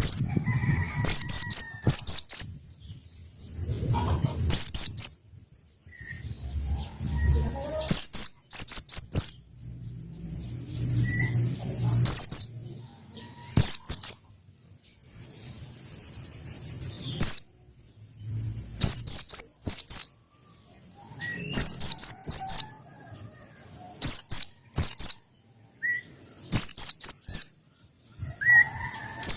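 Pacitan pleci (white-eye) singing in short, loud bursts of rapid high-pitched chirps, a new phrase every second or two.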